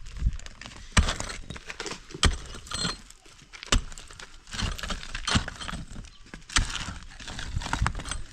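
Demolition work on an old house: irregular sharp knocks and cracks about a second apart, with rattling and clattering of broken material between the strikes.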